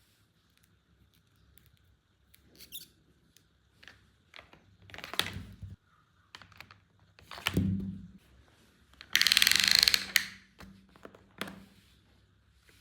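Hands handling plastic toy packaging and parts: scattered light clicks and taps, a heavier knock about seven and a half seconds in, and a loud rustling burst lasting about a second around nine seconds in.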